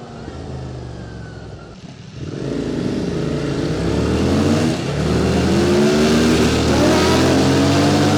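QJ Motor SVT650X twin-cylinder engine through an Arrow Racetech slip-on exhaust, running low and then pulling away hard about two seconds in. The revs climb and drop back several times as it shifts up, with wind noise building.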